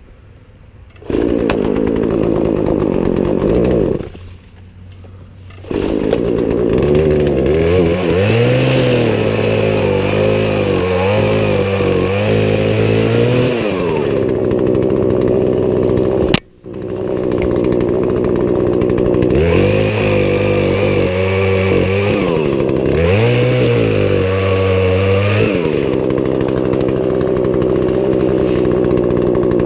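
Poulan Pro two-stroke chainsaw running. It comes in about a second in, drops to a low idle around four seconds, then picks up again and runs with repeated revs whose pitch rises and falls, with a momentary cut-out about halfway through.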